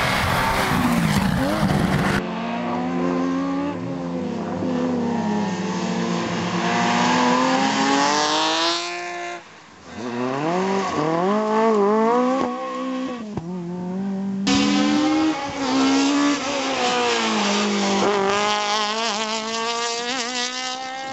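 Rally car engines at full throttle in several short clips, the pitch climbing and dropping again and again through gear changes. Around nine seconds in the sound drops away briefly, then an engine rises again as a car accelerates hard.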